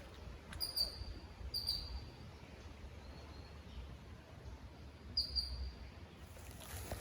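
A bird calling with three short, high chirps: about a second in, near two seconds and just after five seconds, over a low steady rumble.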